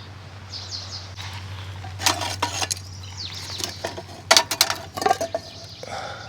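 Metal camp cookware and utensils clattering in two short bursts of sharp clinks, about two seconds in and again past four seconds, with birds chirping.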